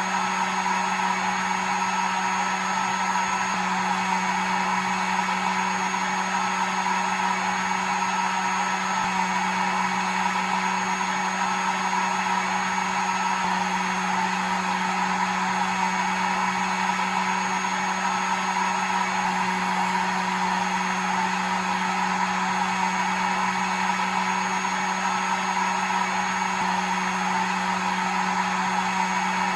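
Hair dryer blowing continuously at a steady pitch, its motor hum under an even rush of air.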